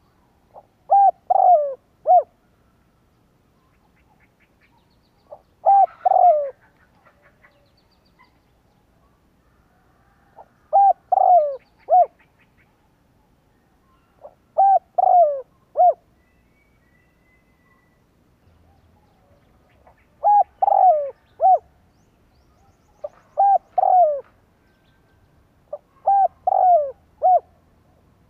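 Spotted dove cooing: seven phrases of three or four short, falling coo notes, each about a second and a half long, repeated every few seconds.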